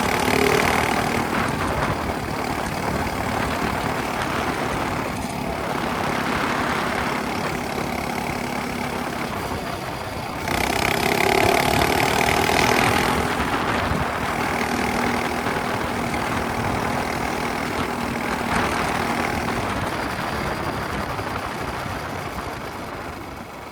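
Minibike engine with a straight-pipe exhaust running under changing throttle. About ten seconds in it suddenly gets louder and higher as the throttle is opened, then eases back. It fades near the end.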